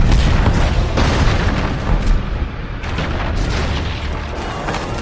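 Movie-soundtrack pirate ship battle: repeated cannon booms and explosions with a deep rumble, over music.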